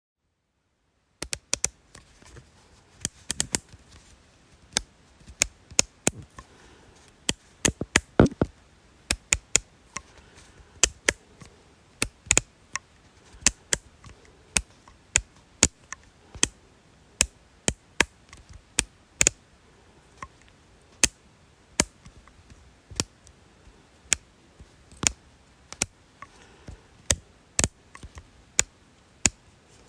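Sharp, short clicks repeated irregularly, about one or two a second and sometimes in quick pairs or triplets, starting about a second in after a moment of dead silence.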